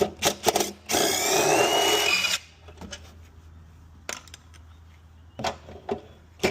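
Cordless power driver spinning for about a second and a half with a slightly rising whine as it backs out a bolt, with sharp clicks of tool and socket handling before it and a few knocks later.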